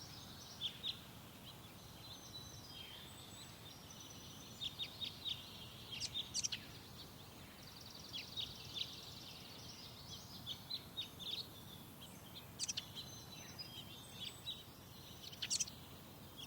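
Several songbirds chirping and singing, with short sharp notes and whistles scattered throughout and a fast trill about halfway through, over a steady low background hum.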